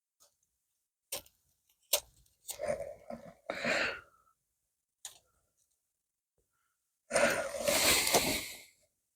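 A person's mouth and breath sounds: a few short smacks and clicks, then breathy exhalations. The longest is a breathy exhale of about a second and a half near the end.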